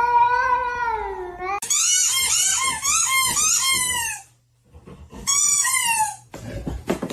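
A pet's drawn-out, wavering yowls: a long call, then a longer one that warbles rapidly up and down, and a shorter third call after a brief pause, followed by a couple of knocks near the end.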